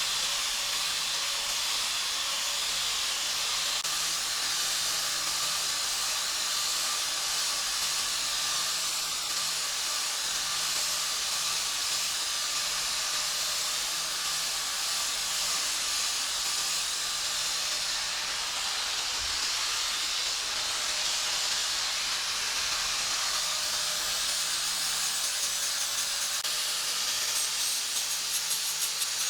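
A steady, unbroken hiss, like air or spray under pressure, with a faint low hum beneath and a few quick ticks near the end.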